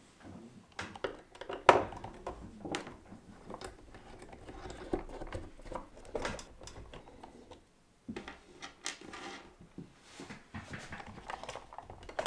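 Irregular small clicks, taps and scrapes of a screwdriver turning screws out of a plastic LGB model locomotive body, with handling of the model between them.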